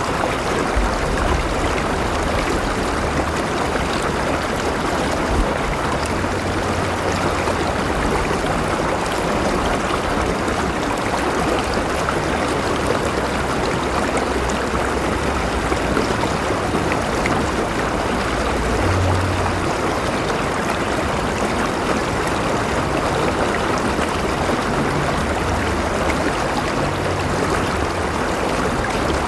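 A flowing river running steadily over rocks, a continuous rushing with gurgling and trickling.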